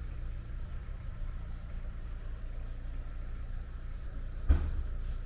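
A vehicle engine idling steadily with a low hum, and a single sharp knock about four and a half seconds in.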